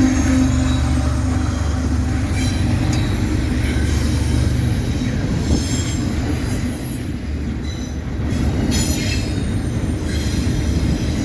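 Intermodal freight cars rolling past on the rails in a steady low rumble, with high-pitched wheel squeal coming and going several times.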